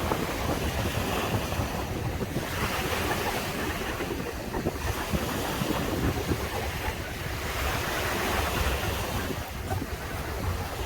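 Waves breaking and washing up on a sandy beach, the surf hiss swelling and easing every couple of seconds, with wind buffeting the microphone in a steady low rumble.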